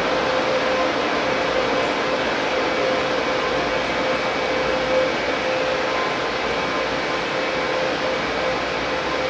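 Steady hum and whir of a train standing at a station platform, its on-board air conditioning and electrical equipment running, with a constant mid-pitched tone.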